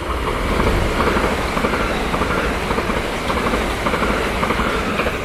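Southern Class 377 Electrostar electric multiple unit, two units coupled, running non-stop through a station platform close by: a loud, steady rumble of wheels on rail with a repeating clatter as the carriages pass.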